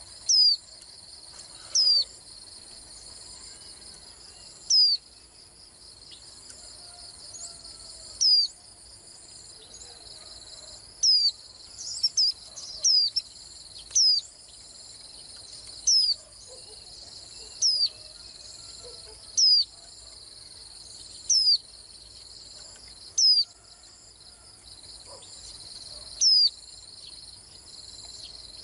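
White-eye calling: short, sharp chirps that fall in pitch, one every one to three seconds, with a few quick ones close together about halfway through. A steady high insect trill runs underneath.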